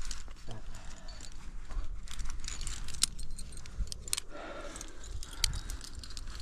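Metal climbing gear on a harness, carabiners and quickdraws, clinking in scattered light clicks as the climber moves, over a low rumble.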